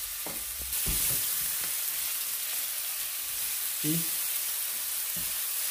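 Marinated chicken pieces sizzling steadily in hot olive oil in a nonstick frying pan, with a few soft knocks as a silicone spatula stirs them.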